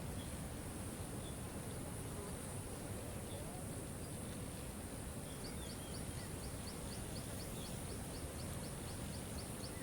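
Waterfall rushing steadily. From about halfway through, a bird adds a rapid series of short high chips, about four or five a second.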